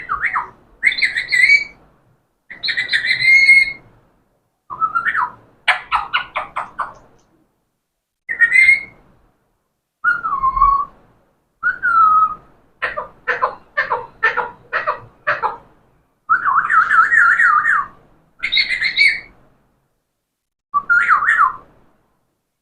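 Pet parrot calling and whistling in a string of separate short calls, several bending in pitch. Near the middle it gives a quick run of about eight clipped notes.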